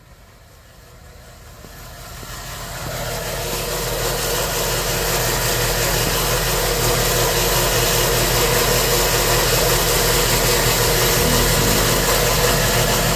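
A car engine running steadily, fading in over the first few seconds and then holding at a constant level.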